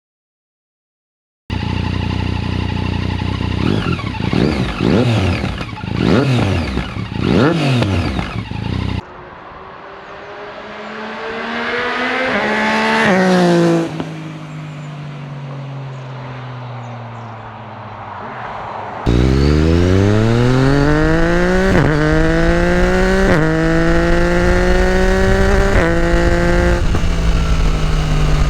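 Yamaha MT-09 SP's three-cylinder engine through an Akrapovic carbon full exhaust with the dB killer fitted. It is revved up and down several times, then passes by with the pitch rising and then falling away, then accelerates hard through about six upshifts.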